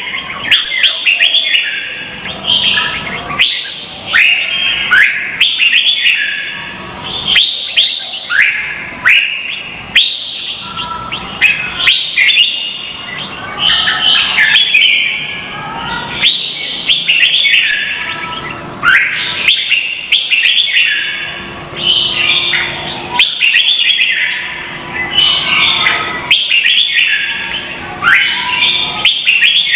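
Red-whiskered bulbuls singing in competition, short whistled phrases of quick rising and falling notes following one another almost without a break.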